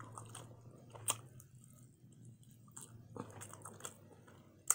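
A person chewing and biting food, with soft mouth clicks and one sharp click near the end.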